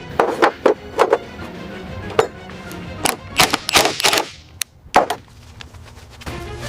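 A series of sharp, irregular knocks and taps, about a dozen over five seconds and clustered most densely near the middle, over background music.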